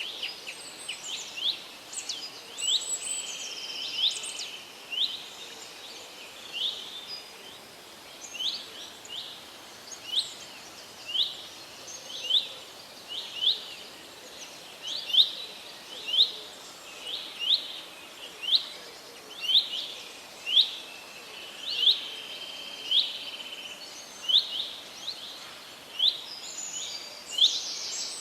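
A bird chirping over and over, short sharp high chirps about once a second, with a few longer level notes among them, over a steady faint hiss of forest background.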